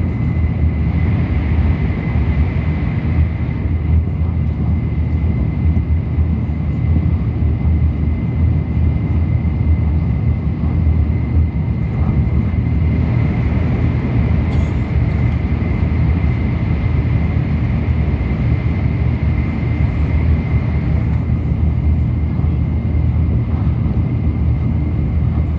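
Shinkansen running at speed, heard inside the passenger car: a loud, steady low rumble of wheels and air, with a faint steady high whine.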